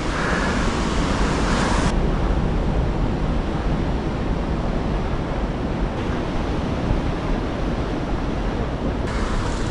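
Steady rushing of ocean surf mixed with wind on the microphone. The high hiss drops away abruptly about two seconds in and comes back near the end.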